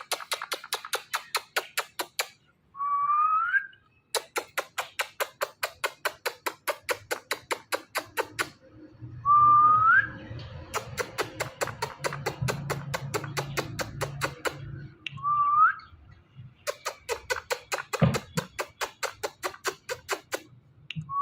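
Indian ringneck parrot making long runs of rapid clicks, several a second, broken by three short rising whistles.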